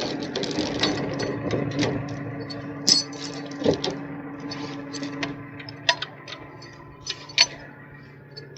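Steel chain clinking and rattling in scattered sharp clinks over a steady engine hum that slowly fades, as the tow rig lifts the truck's axle just off the ground to pass a chain under it.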